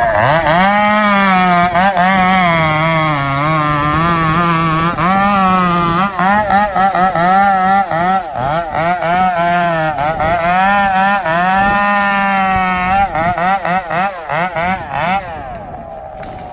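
Two-stroke chainsaw running at high revs in a cut, its pitch wavering up and down as the load on the chain changes. It eases off over the last couple of seconds.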